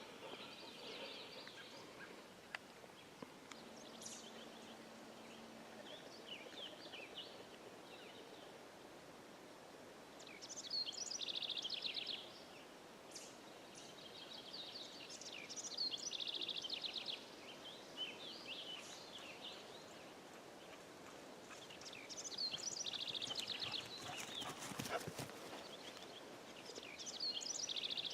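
A small songbird singing short, fast-trilled high phrases, each lasting a second or two and repeated every few seconds, with softer scattered notes between them.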